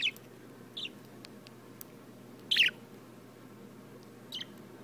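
A pet bird giving four short, sharp chirps, each dropping slightly in pitch; the loudest comes about halfway through.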